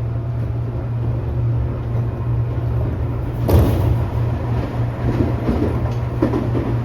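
Tobu 10000 series electric train heard from inside a motor car while running: a steady low hum over rolling rumble. There is one sharp clunk about three and a half seconds in.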